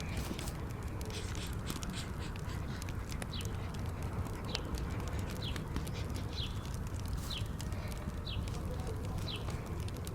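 Fireplace crackling over a steady low rumble, with a short high falling chirp repeating about once a second.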